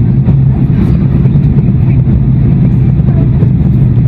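Airbus A340-600 with its four Rolls-Royce Trent 500 engines under power, heard as a loud, steady low rumble of engine and airflow noise.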